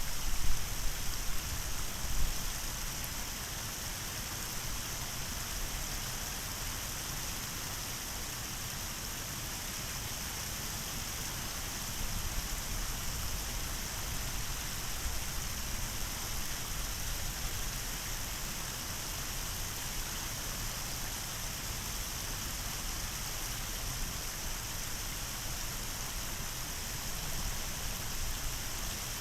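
Small waterfall splashing, a steady rush of falling water, with a few low bumps in the first couple of seconds.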